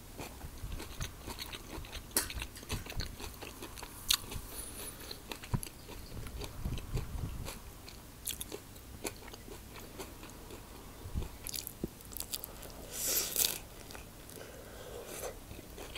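Close-up chewing of a mouthful of quinoa salad, with small wet mouth clicks. Near the end comes a louder crunchy bite into a tomato bruschetta on toasted bread.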